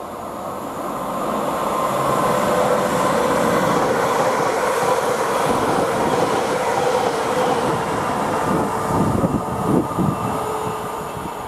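Northern Class 331 electric multiple unit passing close by on plain track: a rising rumble of wheels on rail with a steady motor whine, a few wheel knocks over rail joints near the end, then fading as it draws away.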